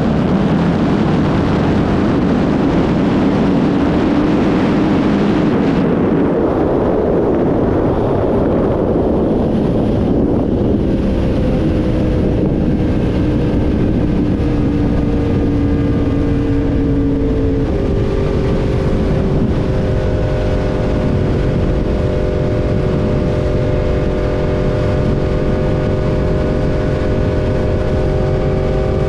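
Inline-four sport bike engine running at a steady cruise with wind rushing over the microphone. The wind noise dominates for about the first ten seconds, then eases and the engine's steady tone comes through, changing pitch once about two-thirds of the way in.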